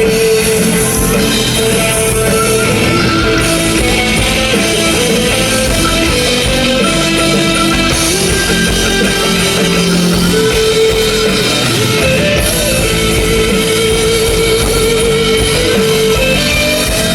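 A live rock band playing an instrumental passage: distorted electric guitars holding and bending notes over bass and drum kit.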